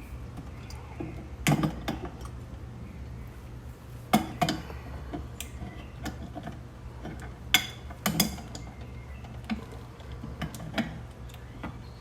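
Metal tools clinking and knocking on brass gas fittings as a leaking fitting on an acetylene regulator is tightened: about a dozen sharp clicks and knocks, a few of them louder, over a steady low hum.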